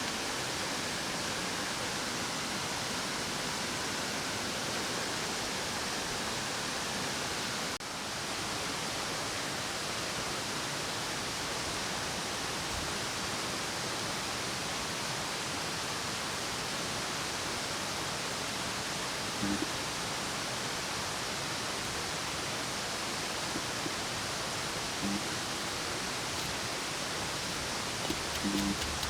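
Steady rushing noise, even across the range, with a few faint soft knocks near the end.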